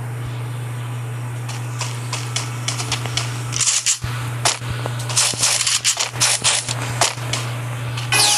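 Irregular clicks and short scratchy rustles of something being handled close to the microphone, over a steady low hum; the clicking gets busier about halfway through.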